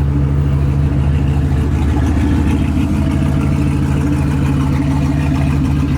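Turbocharged 6.0 V8 of a Chevrolet Silverado idling steadily, with an even, unchanging engine note.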